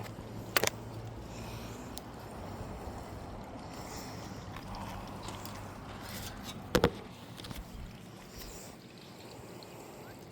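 Creek water running steadily, with two sharp knocks: one about half a second in and a louder one near seven seconds.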